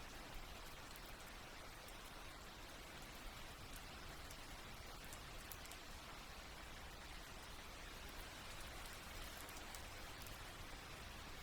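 Steady, soft rain falling, an even hiss with scattered light drop ticks.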